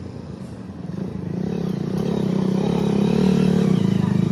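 A motor running with a steady low hum that grows louder from about a second in, then drops off sharply near the end.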